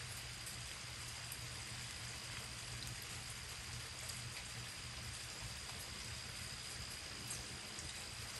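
Light drizzle falling steadily, with scattered faint drips and a thin steady high tone.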